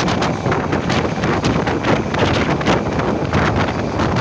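Wind buffeting the microphone from the open door of a moving electric local train, over the steady running noise of the train on its track, with gusty surges every half second or so.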